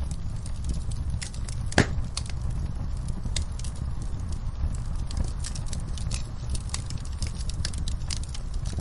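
Fireplace fire crackling: frequent small pops and snaps over a steady low rumble, with one louder pop about two seconds in.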